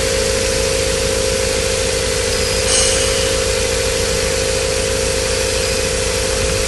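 Ford Focus 2.0-litre AODA four-cylinder petrol engine idling steadily, with a brief hiss about three seconds in.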